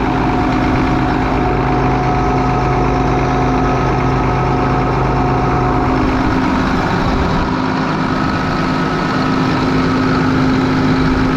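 John Deere 7710 tractor's six-cylinder turbo diesel idling steadily, freshly reinstalled after a rear main seal repair and left running to check for leaks. Its low hum shifts about six seconds in.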